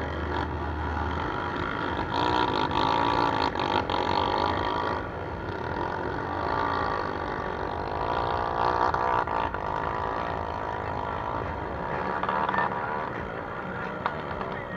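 Several trail motorcycle engines running together, their pitch rising and falling as they are revved.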